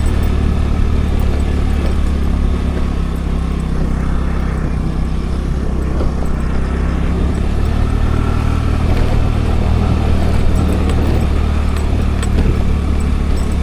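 Scooter running steadily while under way, its low engine drone mixed with road and wind noise.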